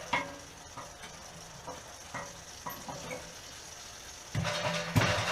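Water heater tank draining, with scattered small drips and gurgles as air is let in through the loosened cap so the water can run out. Music with a beat starts about four seconds in.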